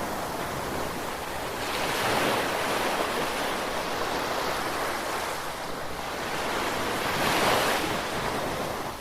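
Ocean waves breaking and washing on a shore, with surges about 2 seconds in and again near the end.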